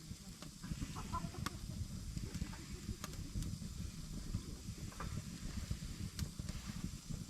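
Wood fire burning with a few sharp pops, over a low rumble.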